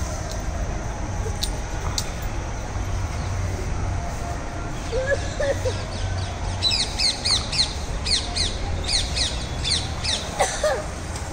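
Birds calling: from about halfway through, a flurry of sharp, high chirps, each sliding downward, several a second, over a low steady rumble.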